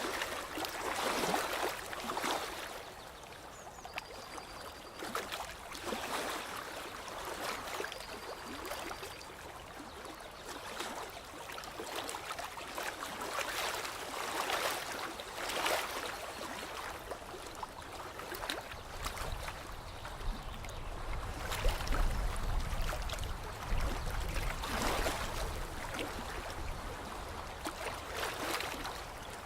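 Lake water lapping and trickling in small waves that swell every second or two. A low rumble comes in about two-thirds of the way through, and faint short high tones sound three times in the first third.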